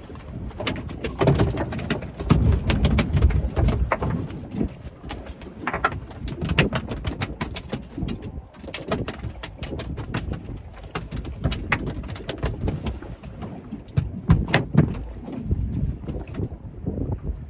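Irregular knocks, thumps and rattles of a small kingfish being landed and handled in a small boat, with the fish thrashing against the hull and gear.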